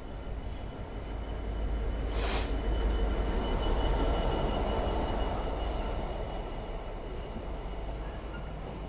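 A train passing through the station: its running noise swells to a peak about four seconds in and then fades away, with a brief hiss about two seconds in and a faint steady high tone over it.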